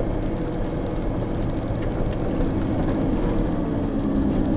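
Steady engine and road noise of a moving vehicle heard from inside its cab.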